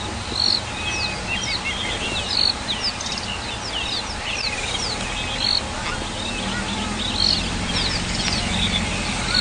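Several forest birds calling together in a busy chorus of short chirps and quick falling whistles. A louder call repeats about every two to three seconds over a low, steady rumble.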